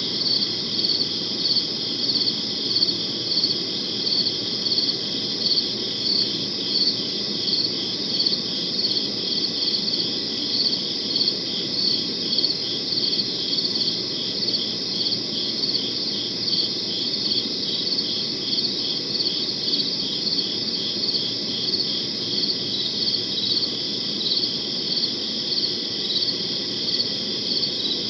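Crickets chirping in a steady, dense chorus, with a regular pulsing rhythm to the chirps, over a faint low background hiss.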